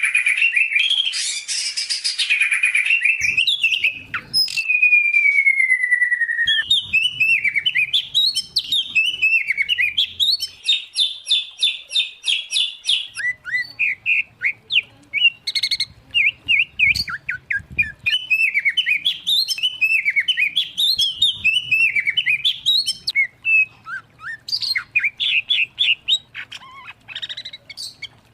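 Songbirds of the kind kept for Indonesian singing contests (white-rumped shama, oriental magpie-robin, greater green leafbird) singing loudly and without pause: fast buzzy trills, a long falling whistle a few seconds in, and many short chirps and whistled phrases.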